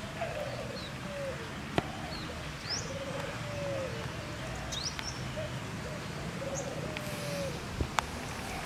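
Birds calling: a run of short, low, falling notes repeated every second or so, with a few brief higher chirps. Sharp clicks sound about two seconds in and again near the end.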